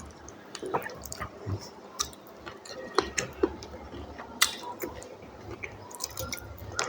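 A person eating khichuri and curry: scattered short, wet chewing and mouth-smacking sounds.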